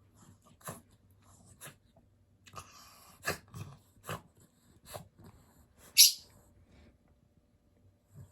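A Yorkshire terrier making short snoring and snorting breath sounds, about one a second, with one much louder, sharp snort about six seconds in.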